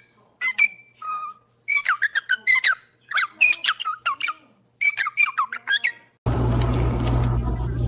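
Pet parrot chirping and whistling: quick runs of short calls that slide up and down in pitch, with brief pauses between runs. About six seconds in, a steady hum with a low drone cuts in suddenly.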